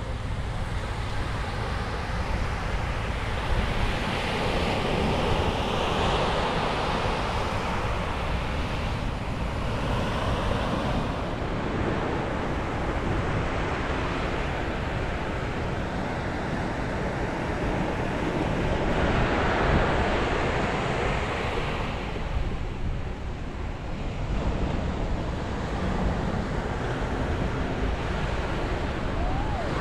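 Sea waves breaking and washing up on a beach, in swells that rise and fall every few seconds, with wind buffeting the microphone as a low rumble.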